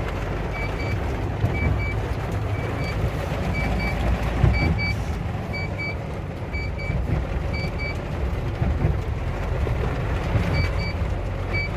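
A vehicle engine running with an electronic warning beeper sounding short double beeps about once a second. The beeping pauses for a couple of seconds and starts again near the end.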